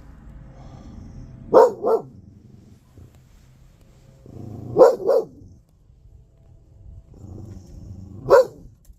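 Pet dog barking at delivery trucks: five sharp barks, a quick double bark about a second and a half in, another double about five seconds in, and a single bark near the end.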